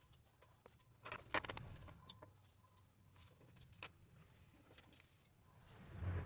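Light clicks, taps and rustling from handling a paper planner and stationery at a desk, with a quick cluster of taps about a second in and a soft rustle ending in a dull thump near the end.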